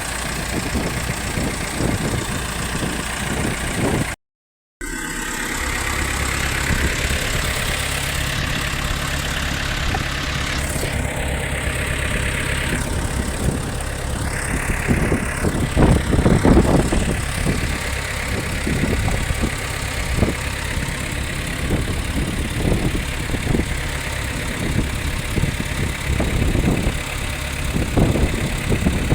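Fishing boat's engine running steadily under way, with wind and water noise over it and heavier thuds of the hull meeting waves about halfway through. The sound cuts out briefly about four seconds in.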